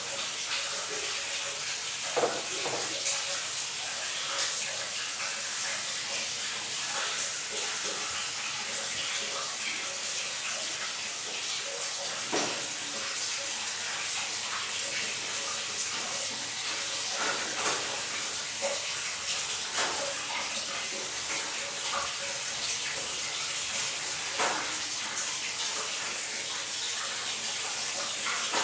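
Water running steadily from a tap in a small bathroom, with a few brief splashes or knocks.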